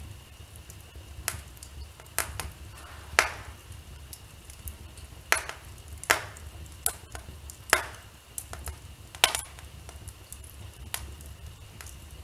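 Wood fire in a fireplace crackling, with irregular sharp pops, about five of them louder than the rest, over a low steady rumble.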